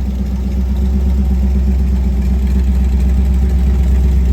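Freshly installed Chevrolet 350 small-block V8 with an Edelbrock carburetor running steadily at a smooth idle.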